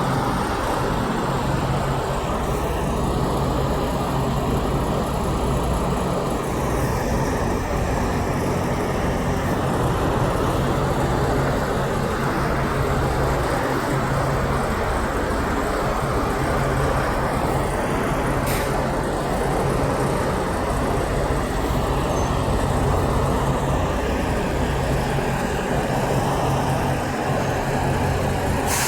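Steady road traffic noise with a low, even engine hum. Two short ticks are heard, one about two thirds of the way in and one at the very end.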